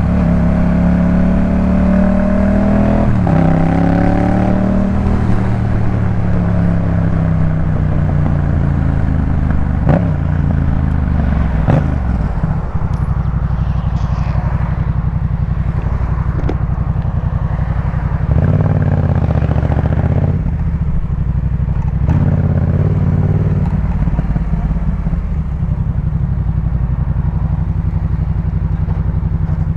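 Yamaha MT-07's parallel-twin engine breathing through a Jeskap K4 full exhaust, slowing down with a falling engine note and a few gear changes over the first dozen seconds. It then settles to a steady low note, with two brief louder spells a little after the middle.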